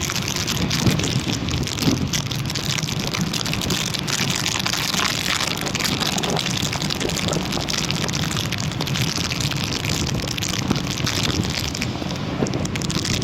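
Steady rain falling, with many small drops ticking on a surface over a constant rushing noise.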